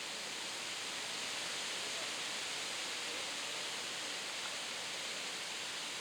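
Steady, even rushing of flowing water, with no bird calls heard.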